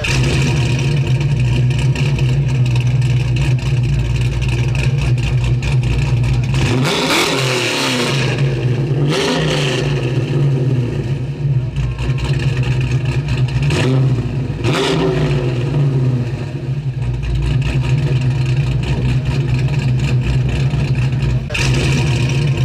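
1969 Plymouth Road Runner's 383 big-block V8 idling steadily, revved up briefly a few times in quick blips that rise and fall back to idle.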